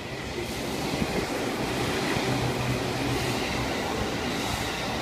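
Electric commuter train running in alongside the platform, its rumble growing louder over the first two seconds and then holding steady.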